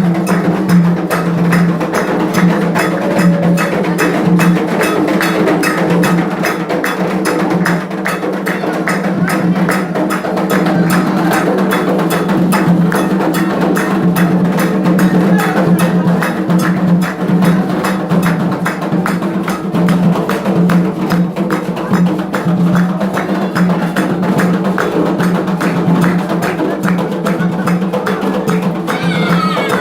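Candomblé drumming: percussion music with a fast, steady beat of drums and a sharp, clacking struck instrument.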